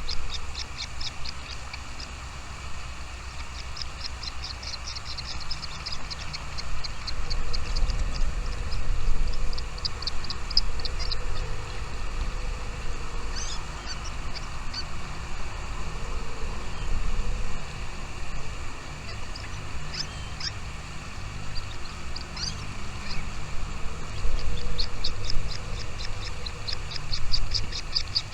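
Small birds chirping in quick runs of short, high notes, several to the second, that come and go several times, with the longest run near the end. A steady low rumble lies underneath.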